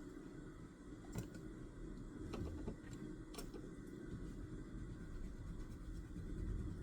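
A few light, sharp clicks and taps at a study desk, about a second apart near the start and middle, over a steady low room rumble.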